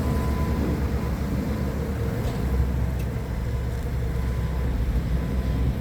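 Forklift engine running with a steady low rumble as the machine is worked through a practice course.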